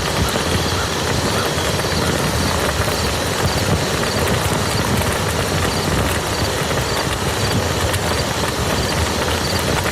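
Steady rain falling on a muddy field: a dense, even patter of drops that does not let up.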